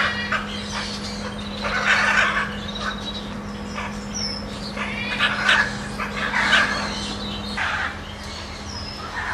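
Harsh animal calls, a squawk every second or two, over a steady low hum that stops near the end.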